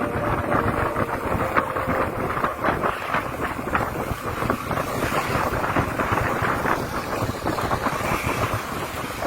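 Wind rushing over the microphone of a bicycle rider moving at speed, with a dense, constant clatter of small knocks and rattles from the bike on rough ground.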